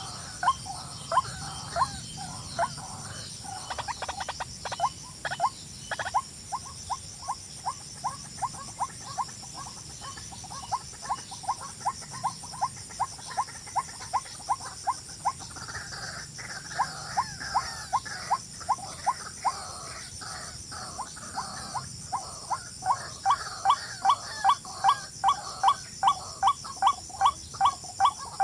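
An animal's short, sharply rising chirping calls repeated about three times a second, growing louder near the end, over a steady high-pitched insect drone.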